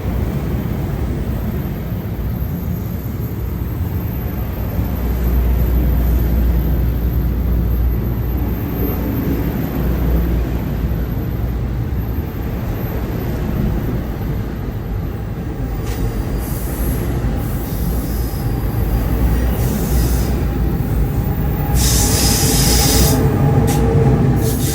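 New Jersey Transit electric train rolling on the rails with a loud steady rumble. A high hiss and a thin whine come in during the last few seconds.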